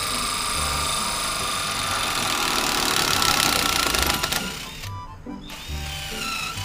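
A power tool running steadily and cutting off about four seconds in, over background music with a steady bass beat.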